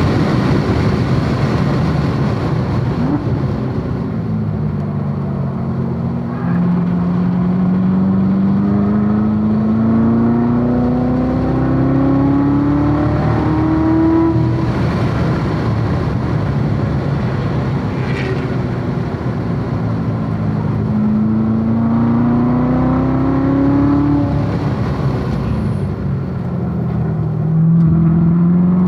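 A Corvette C7 Z06's supercharged 6.2-litre V8 running hard on a race track. Its pitch climbs under acceleration three times: a long pull in the first half, a shorter one past the middle, and another starting near the end, with breaks in between as it shifts or lifts.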